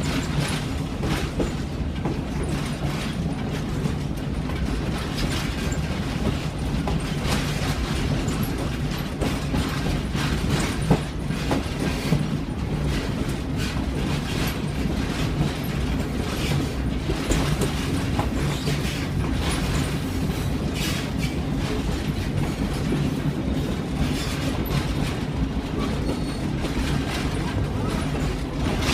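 Excursion train running along its track, heard from aboard a passenger car: a steady low rumble with irregular sharp clicks of the wheels over the rail joints.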